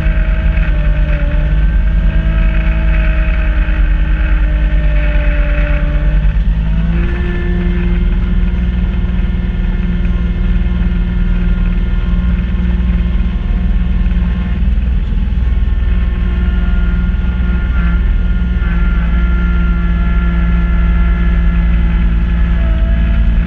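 Kubota B2650 compact tractor's three-cylinder diesel running steadily while driving a front-mounted snow blower. It gives a continuous low drone with a whine over it that shifts pitch about seven seconds in.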